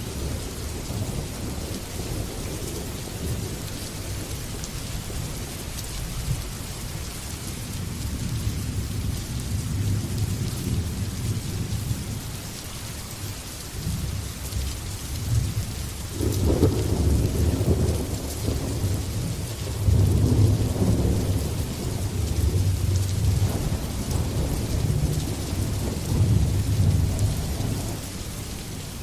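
Thunderstorm: steady heavy rain hissing, with thunder rumbling low underneath that builds into long rolling peals from about halfway through, loudest in the second half, then eases near the end.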